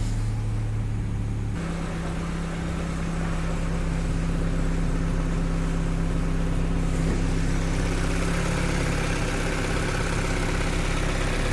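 Opel Astra H's 1.6 Z16XEP Twinport four-cylinder petrol engine idling just after being started, its note shifting about a second and a half in. It carries the model's characteristic non-metallic noise, which the mechanic traces to the intake manifold, where oil from the crankcase ventilation collects.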